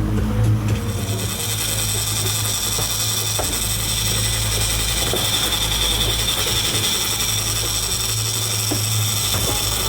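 Fishing reel drag buzzing steadily as a fish pulls line off, setting in about a second in, over the low steady hum of a boat engine.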